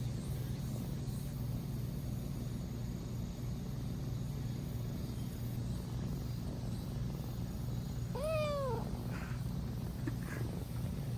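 A cat meows once, about eight seconds in: a single short call that rises and falls in pitch. A steady low hum runs underneath.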